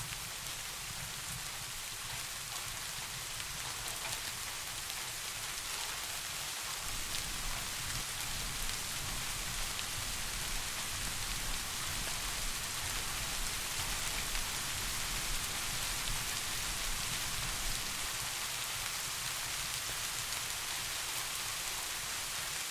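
Steady rain falling, a dense even patter. A low rumble underneath grows stronger for about ten seconds in the middle.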